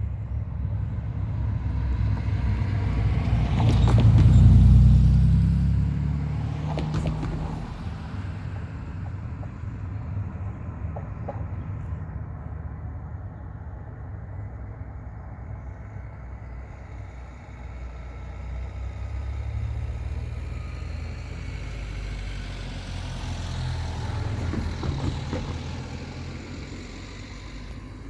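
Vehicles passing close by: a loud rumble that swells and peaks about four seconds in with two short clatters, then a second, quieter pass near the end.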